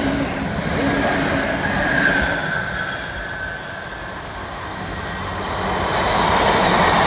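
Class 323 electric multiple unit running through the station without stopping: a steady rumble of wheels on rail with a thin high whine over the first couple of seconds. The noise eases in the middle and swells again near the end.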